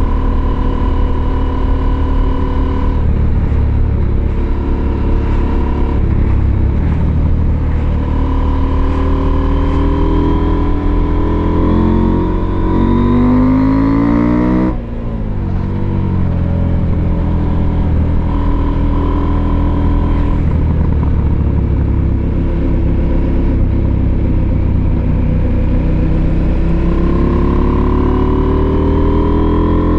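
Husqvarna Norden 901's 889 cc parallel-twin engine under way, climbing steadily in revs to about halfway through. The revs drop suddenly, with a brief dip in loudness, at a gear change, then the engine pulls on and climbs again near the end.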